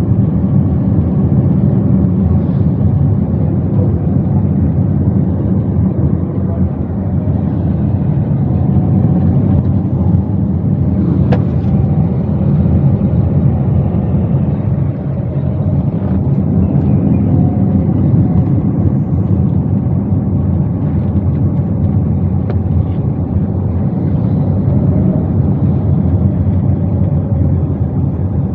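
Cabin noise inside a Toyota Wigo being driven: a steady low rumble of engine and road, with one faint click about eleven seconds in.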